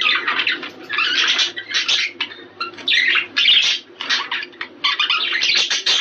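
A flock of budgerigars chattering and warbling in quick, scratchy bursts with short pauses: the busy flock chatter that is played to budgies to stimulate breeding.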